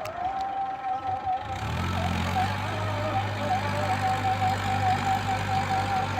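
Tractor diesel engine running at a steady speed, coming in low about one and a half seconds in, under background music with a wavering melody.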